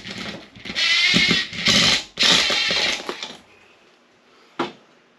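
A metal roof basket scraping and rattling as it is worked loose from its hanging point in three long bursts, then a single knock near the end.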